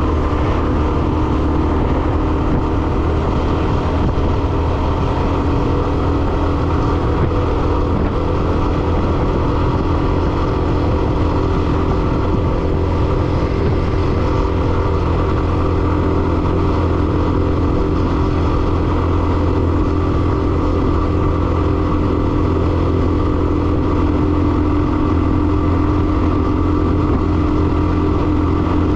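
Hero Xtreme 125R motorcycle's single-cylinder engine running steadily while riding, heard from on the bike together with road and wind noise.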